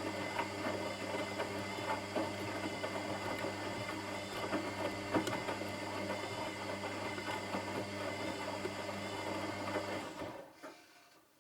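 Washing machine running: a steady motor hum with irregular rattling, which winds down and stops about ten seconds in.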